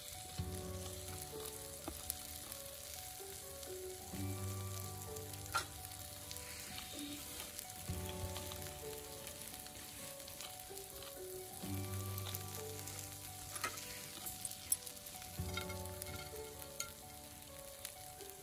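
Chicken cartilage sizzling in a frying pan over a wood fire, with a few sharp pops. Background music plays under it, with a bass line that returns about every four seconds.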